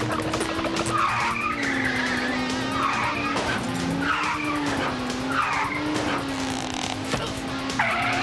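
Cartoon race-car sound effects: a steady engine drone that wavers in pitch, with a series of short tire squeals.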